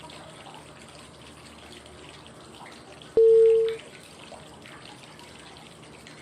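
Steady flowing-water white noise, with one short single-pitch cue tone about three seconds in. The tone is one of the prompt tones that come every five seconds to mark the phases of a 5-5-5 breathing count.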